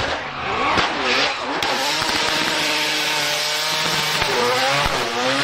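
Drift car engine revving up and down, then held at high, fairly steady revs over a steady hiss.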